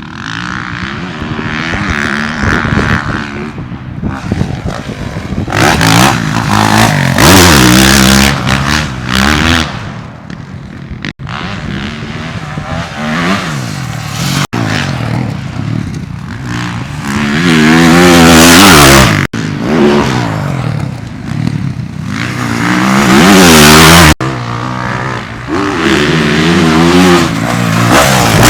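2023 Yamaha YZ450F's single-cylinder four-stroke engine revving up and down repeatedly as the dirt bike is ridden hard on a motocross track, with wind rushing over the microphone at the high revs. The sound breaks off abruptly several times where one riding clip cuts to the next.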